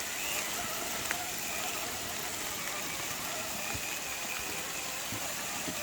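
Steady rain falling on leaves and the ground, an even hiss with a few sharp drip ticks.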